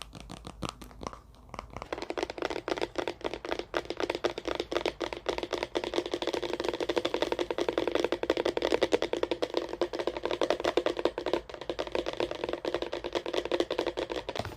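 Rapid, continuous tapping: many light clicks a second, sparse at first and then dense and steady from about two seconds in.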